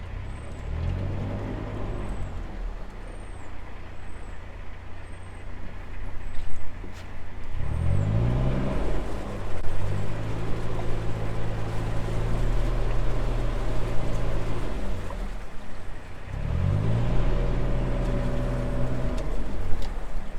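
Narrowboat diesel engine idling, with the throttle opened three times. Each time the engine revs up, holds a steady note (briefly the first time, for several seconds the next two), then drops back to idle, as the boat is manoeuvred into the lock.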